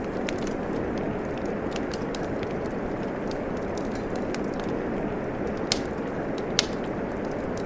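Steady rain hiss mixed with a wood fire crackling, with scattered sharp pops and two louder snaps near the end.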